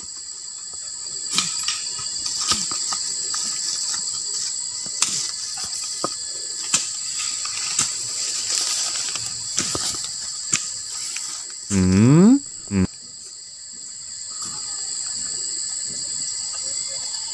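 A steady, high-pitched drone from an insect chorus, with light rustling and snapping in grass and undergrowth. About twelve seconds in comes a loud rising whoop lasting about a second.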